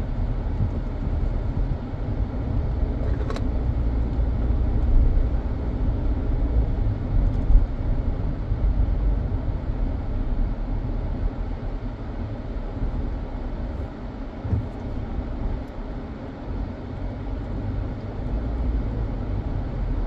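Steady low rumble of a car on the move, engine and tyre noise heard from inside the cabin, with a faint click a few seconds in.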